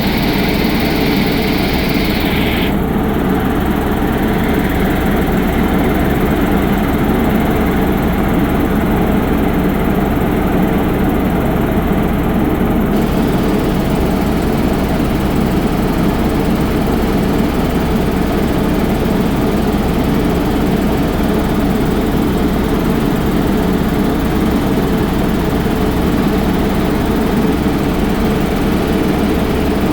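Sightseeing helicopter's engine and rotor drone, heard from inside the cabin in flight: a loud, steady, unbroken running noise with a low hum.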